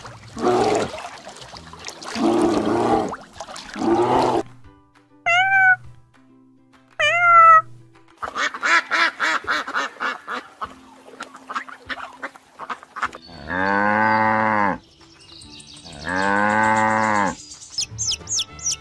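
Farm animal calls one after another: rough low calls, two short rising-and-falling chirps, a fast run of duck quacks, then two long, low, drawn-out bellows of about a second and a half each.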